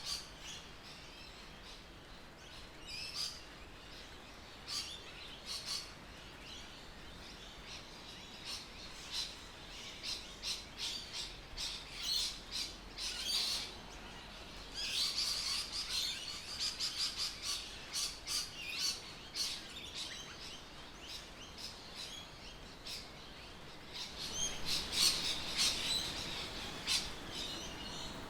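Birds chirping and calling in many short notes, busiest about halfway through and again near the end.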